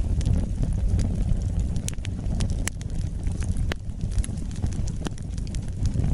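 Wood fire burning, with a steady low rumble under irregular sharp crackles and pops, a few each second.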